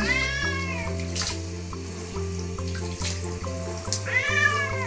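A handheld shower sprays water onto a wet British Shorthair cat's fur in a bathtub. The cat meows twice, once at the start and again near the end, each call rising and falling in pitch. Background music with a steady beat plays underneath.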